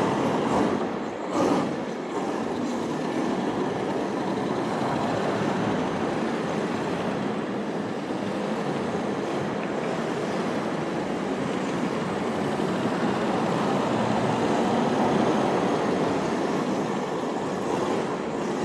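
HSP 94123 1/10 RC drift car with a brushless motor being driven, giving a continuous rushing noise of tyres and drivetrain, with a brief louder swell about a second and a half in.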